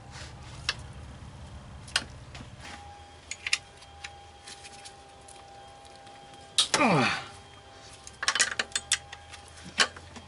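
Hand tools on engine bolts: scattered metallic clicks and clinks of a socket wrench. About two-thirds of the way through comes a short loud squeak that falls in pitch, followed by a quick run of ratchet-like clicks.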